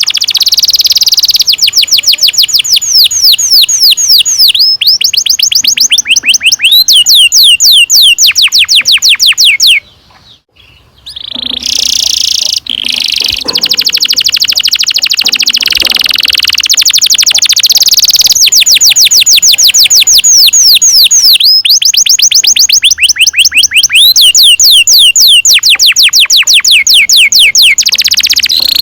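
Domestic canary singing long rolling trills: fast runs of high, repeated down-sweeping notes, with a short break about ten seconds in.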